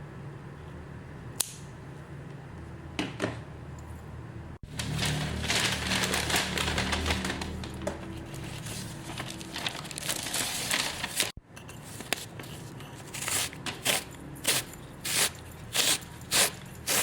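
Handling noise from packing orders over background music. A long stretch of dense crinkling, rustling noise from plastic packaging sits between two abrupt cuts. Near the end comes a run of short sharp rasps, about one and a half a second.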